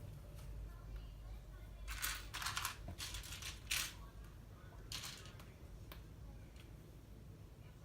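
Loose plastic LEGO pieces clattering and clicking as they are handled and sifted, in a few short bursts about two, three and five seconds in.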